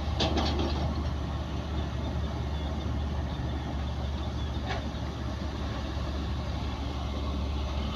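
Heavy diesel engine of earthmoving machinery running steadily at low revs, with a few brief sharp sounds just after the start and once about five seconds in.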